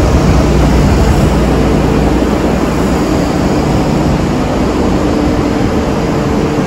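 Steady, loud machinery noise of a container ship's engine room with its engines running, a continuous din with a low steady hum under it.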